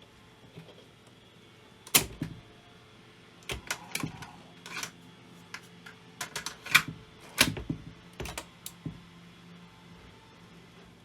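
Irregular sharp mechanical clicks and knocks, about a dozen between two and nine seconds in, over a faint steady low hum.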